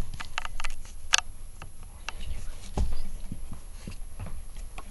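Irregular light clicks and taps, with a sharper click about a second in and a dull thump near three seconds in.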